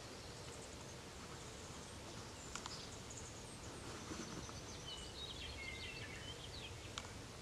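Outdoor ambience: a steady low background hiss with a few faint, short bird chirps clustered around the middle and a couple of light ticks.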